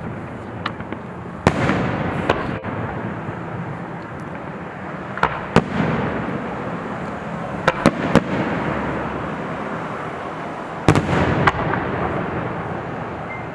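Fireworks shells bursting overhead: about ten sharp bangs at uneven intervals, some in quick pairs or clusters, each followed by a long rolling rumble that echoes and slowly dies away.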